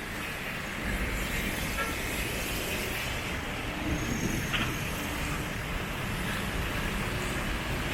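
City street traffic: a steady wash of passing cars with engine rumble, growing a little louder about a second in, and one brief sharp sound about four and a half seconds in.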